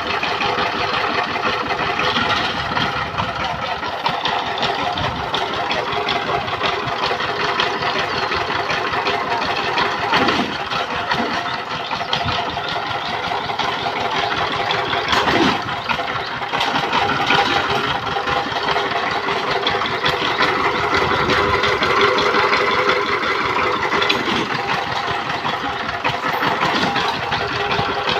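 Power tiller's single-cylinder diesel engine running steadily.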